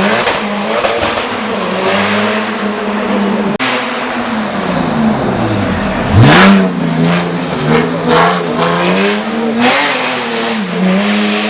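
Hill-climb race car engine at high revs, its pitch stepping up and down through gear changes. About six seconds in it drops low, then sweeps sharply up into the loudest burst.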